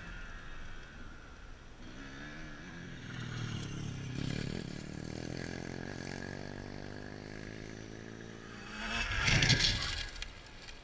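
Dirt bike engine riding around: its note falls away through the middle, then the bike passes close and loud near the end.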